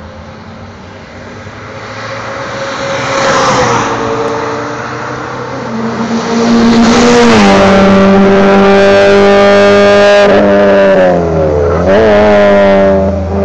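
A car's engine at high revs on a race circuit, getting louder as it comes nearer. The note drops in steps twice, like gear changes, then holds loud and steady. Near the end it dips and rises again as the driver lifts and gets back on the throttle.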